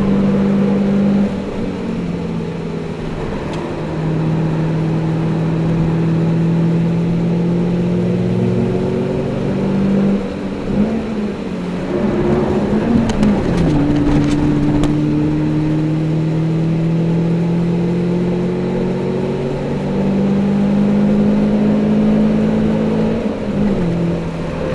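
Toyota Celica's four-cylinder engine under hard acceleration, heard from inside the cabin. Its pitch climbs slowly in each gear and steps at several gear changes. About ten seconds in it drops off and revs unevenly through a lift and downshift before pulling again.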